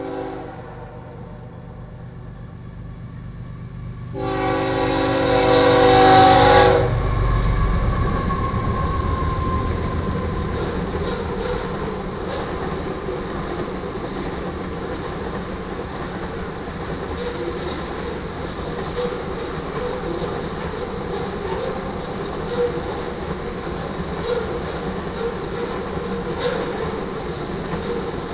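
Locomotive air horn on a GE ES44C4 freight locomotive blowing a short blast, then a loud long blast of about two and a half seconds, the close of the grade-crossing horn signal. The deep diesel rumble of the locomotive swells as it passes, then gives way to the steady rumble and clickety-clack of loaded crude oil tank cars rolling past.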